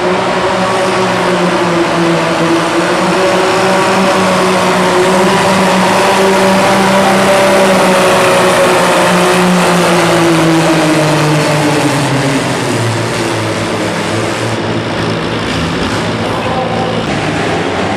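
Antique pulling tractor's engine running hard under load during a pull, its pitch wavering and sagging as it labours. It eases off slightly about twelve seconds in.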